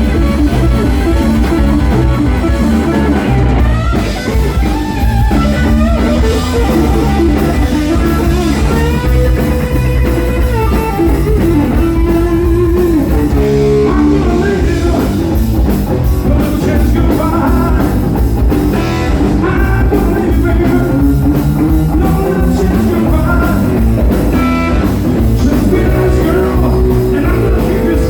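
Live blues band playing a slow blues, with an electric guitar solo of bent, wailing notes over bass and drum kit.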